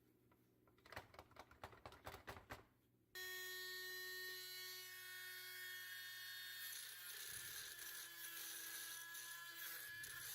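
A few light clicks and taps, then a small electric power tool switches on suddenly about three seconds in and runs steadily at one speed with a buzzing whine.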